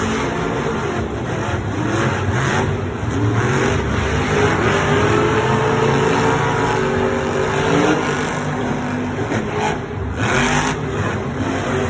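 Monster truck supercharged V8 engines revving hard and loud, the pitch rising and falling repeatedly as the trucks race.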